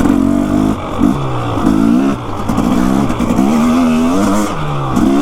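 Motorcycle engine running under way, its pitch rising and falling repeatedly with throttle and gear changes, over steady wind and road noise.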